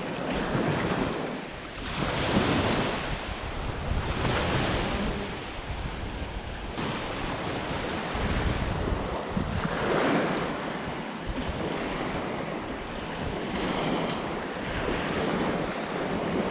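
Wind rumbling on the microphone over a wash of water noise that swells and fades every couple of seconds.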